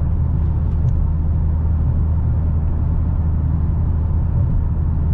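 Steady low drone inside the cabin of a 2022 Dodge Challenger Hellcat cruising at highway speed: its 6.2-litre supercharged V8 at a light cruise mixed with road and tyre noise.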